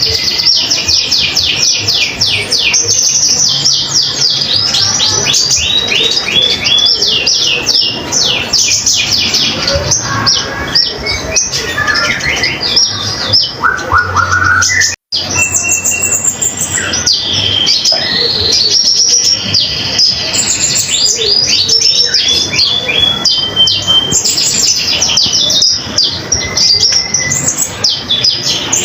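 A konin songbird singing without pause in fast runs of steeply falling high chirps, broken by short held whistles. The song cuts out for an instant about halfway through.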